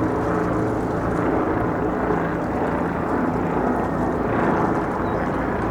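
A steady low engine drone with a constant hum, under a wash of outdoor noise.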